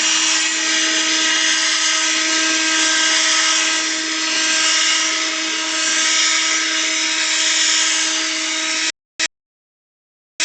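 Leaf blower running at steady power: a loud rush of air over a steady motor hum. It cuts off abruptly about nine seconds in, comes back for a moment, then drops to dead silence.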